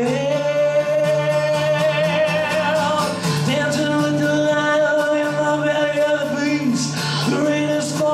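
A man singing long, wordless held notes, one with a wavering vibrato, over a steady low drone.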